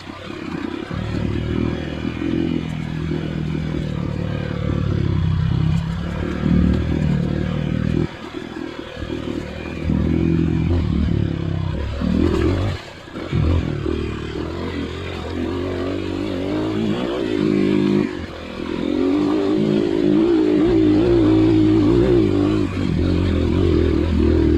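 Off-road trail motorcycle engine running under load, revs rising and falling as the bike rides, with a brief dip about halfway through and higher, steadier revs over the last few seconds.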